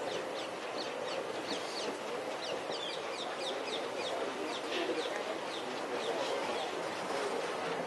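Birds chirping: many short, high chirps that fall in pitch, a few each second, over a steady background noise.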